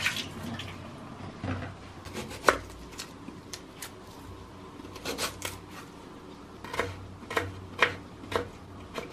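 Knife chopping vegetables on a cutting board: about a dozen separate, irregularly spaced chops, the sharpest about two and a half seconds in.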